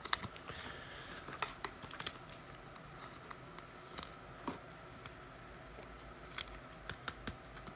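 Faint clicks and soft rustles of trading cards being handled and slid against one another, with a low steady room hum beneath.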